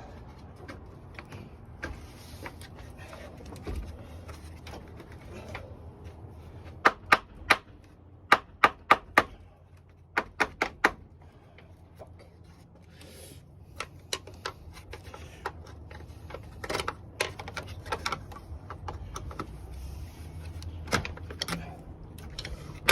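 Sharp clicks and knocks of parts and hand tools in quick clusters of two to four, from hands-on work reassembling the radiator fan assembly area and front trim of a Jeep Patriot.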